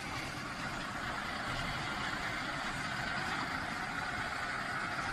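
A vehicle engine running steadily, heard as an even, unbroken noise.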